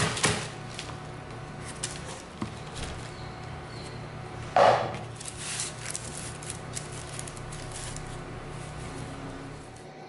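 Kitchen handling sounds: scattered light clicks and knocks over a steady low hum, with a cluster of sharp knocks at the start and one louder knock about four and a half seconds in.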